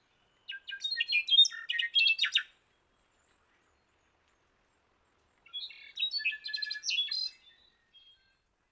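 Songbird chirping in two quick bursts of high, rapid notes about three seconds apart.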